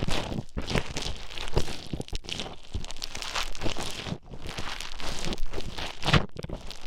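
Play foam being stirred and squished close to the microphone with an ear pick, giving an uneven run of crackling, crunching and squelching noises with small sharp pops.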